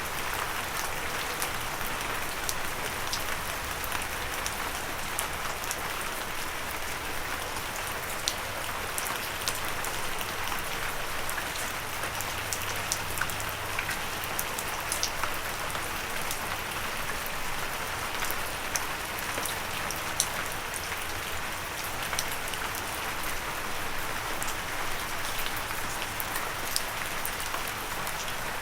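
Steady gentle rain falling, a constant hiss with many sharp drop ticks scattered through it.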